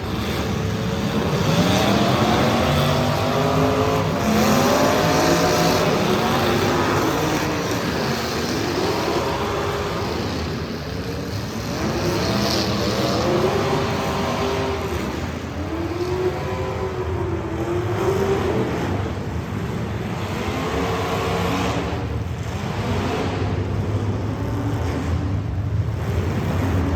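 Several street stock race car engines revving up and backing off as the cars race around the track, the pitch rising and falling every two to three seconds with the cars overlapping.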